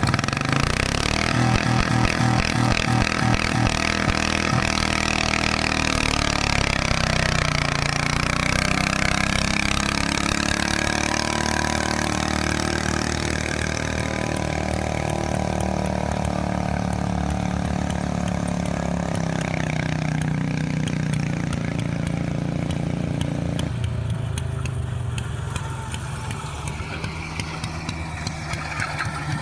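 Tractor engine working hard under load while pulling. Its pitch sags about six seconds in, recovers and holds steady, then drops about 24 seconds in as the engine eases off.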